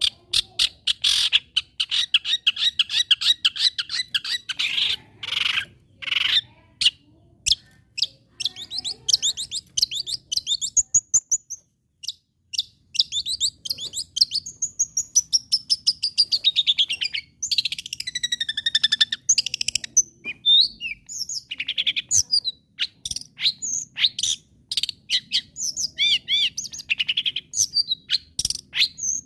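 Long-tailed shrike (cendet) in full song: fast runs of harsh, rapid chattering notes, broken around the middle by quick trills and warbling, sliding whistles.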